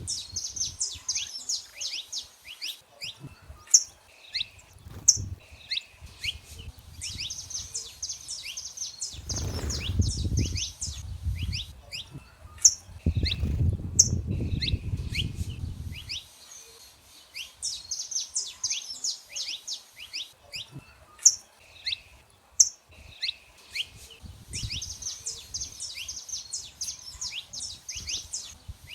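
Saffron finch singing: repeated phrases of rapid, high trilled notes broken by sharp, loud single notes. A low rumble comes in twice near the middle.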